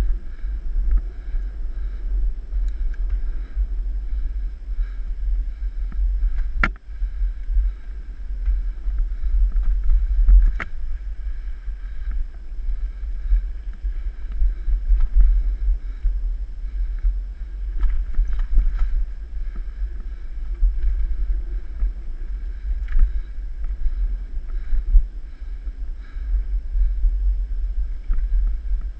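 Wind buffeting the camera microphone on a moving mountain bike, a steady low rumble, with two sharp knocks a few seconds apart.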